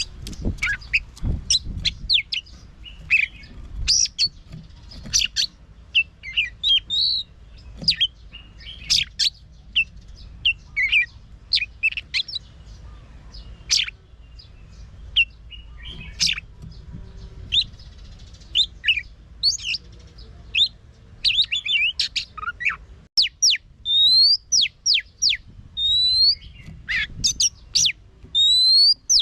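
Oriental magpie-robin singing a fast, varied song of whistles and chirps. About two-thirds of the way through, the low background hum drops away and the song turns to repeated short rising whistles.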